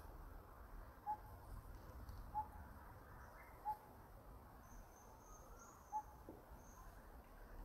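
A bird's repeated call: a single short clear note, given four times at roughly one-and-a-half-second intervals, with one longer pause. Faint high chirps sound in the middle.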